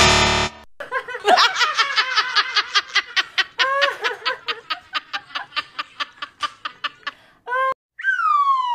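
A long run of quick laughter, a string of short pitched syllables repeating evenly and slowly growing fainter, after a short loud hit at the start; near the end a falling whistle slides down in pitch.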